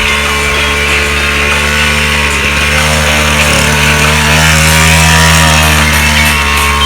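Small dirt bike engine running close by with a buzzy, chainsaw-like note; the revs climb a little about halfway through, then ease back.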